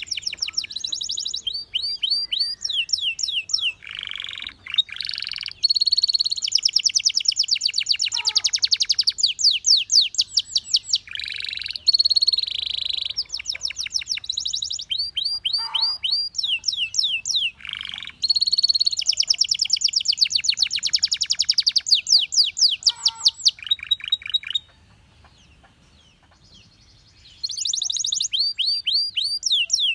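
Belgian canary singing: long rapid trills of quickly repeated sweeping notes, one phrase running into the next with changes in pitch and speed, broken by a pause of about three seconds near the end.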